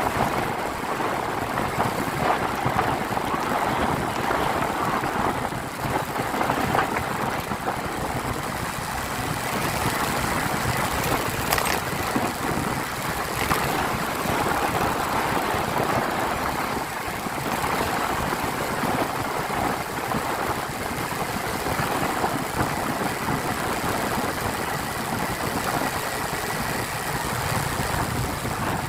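Motorcycle on the move along a highway: steady engine and road noise that holds at one level throughout.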